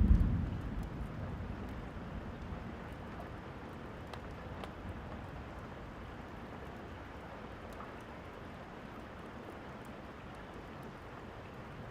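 A thunder rumble dying away over the first couple of seconds, then steady rain falling, with a few faint ticks.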